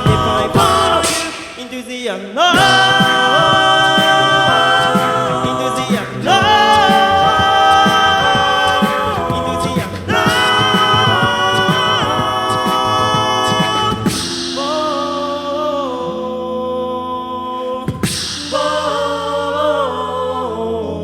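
All-male a cappella group singing sustained harmonies over a beatboxed rhythm. About two-thirds of the way through, the beat drops out for a few seconds of held chords, then comes back.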